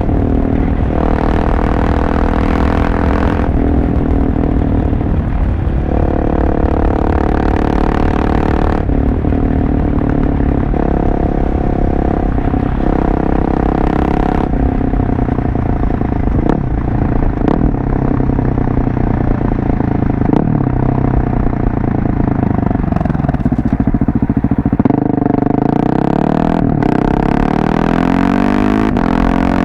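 Husqvarna 701 Supermoto's single-cylinder engine running through a LeoVince aftermarket exhaust while riding. The engine note shifts up and down several times with throttle and gear changes, then climbs steadily in revs near the end.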